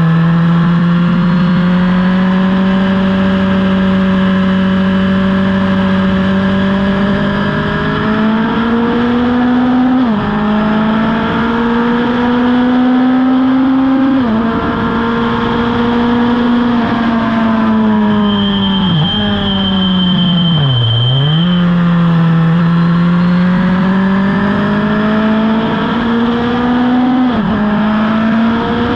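Vintage superbike racing motorcycle engine running hard at high revs, with quick breaks in pitch at gear changes. About two-thirds of the way through the revs fall in a series of steps to a low point as the rider brakes and downshifts for a corner, then climb steadily again on the throttle.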